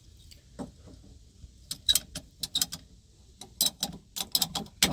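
Small metal PEX fittings clinking and rattling as they are picked through by hand: a quick, irregular run of sharp clicks starting about a second and a half in.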